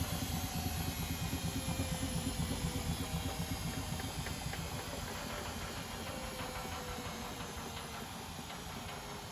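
Privileg Sensation 952 S top-loading washing machine running with a fast-pulsing low rumble and a faint falling motor whine, gradually getting quieter: the drum is slowing down after a spin.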